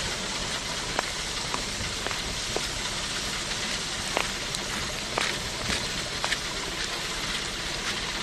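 Rain falling: a steady hiss with scattered sharp drop ticks.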